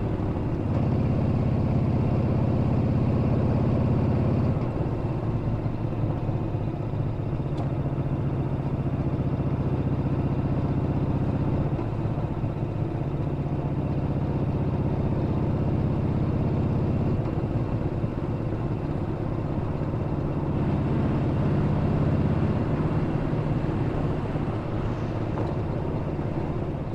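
Yamaha Bolt's air-cooled V-twin engine running steadily with a low note. It eases off slightly about four seconds in and picks up again later on.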